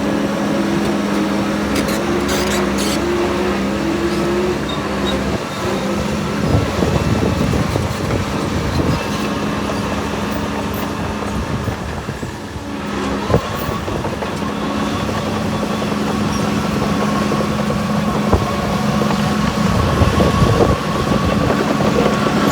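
A heavy earthmoving machine's diesel engine running steadily, with irregular clanks and rattles. The engine note dips briefly about halfway through, and a thin steady whine comes in after it.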